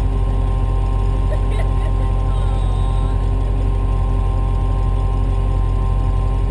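A vehicle engine idling steadily, a constant low hum with a few fixed steady tones above it.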